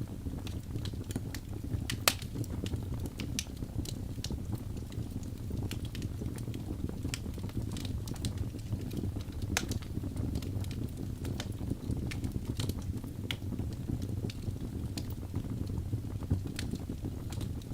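Birch logs burning in a fireplace: a steady low rumble of flame with irregular sharp crackles and pops, one loud pop about two seconds in.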